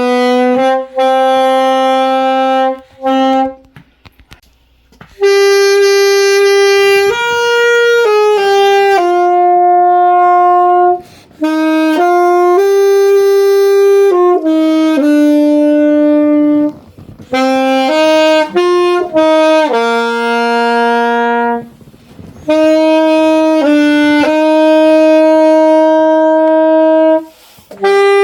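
A single wind instrument playing a slow melody alone, one note at a time in long held notes, with short pauses for breath between phrases.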